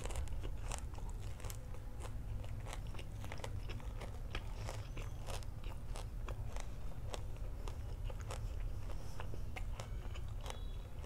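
Close-up crunchy chewing of a deep-fried sausage coated in crushed instant noodles: a steady run of small crisp crackles as the batter and noodle crust break up in the mouth.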